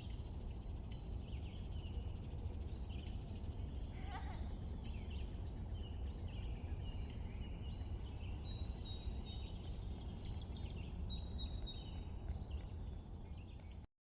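Small songbirds chirping and twittering in many quick overlapping calls over a steady low background rumble, with one call sliding down in pitch about four seconds in. The recording cuts off suddenly near the end.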